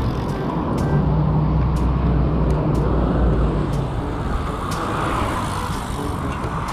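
Road traffic noise, with a motor vehicle passing about a second in, over a steady low rumble of wind and rolling from a bicycle ride.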